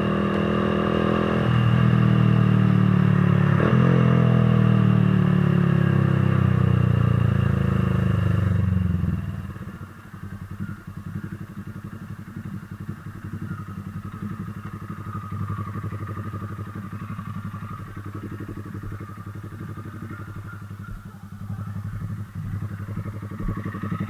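Motorcycle engine running loud with its pitch sweeping down and up in the first nine seconds, then dropping back to a quieter, evenly pulsing idle for the rest.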